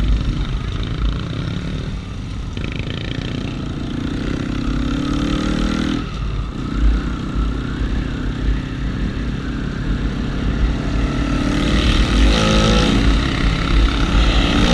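Honda Wave 125i motorcycle engine with a 56 mm big-bore piston running under way, over a steady low rumble; it revs up between about four and six seconds in, drops off suddenly, then revs up again near the end.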